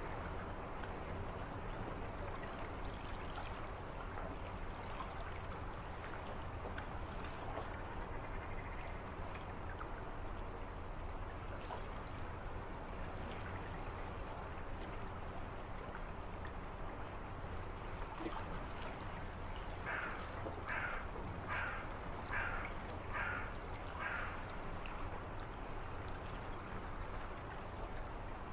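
Steady rushing of running water, with a bird calling six times in an even series about twenty seconds in.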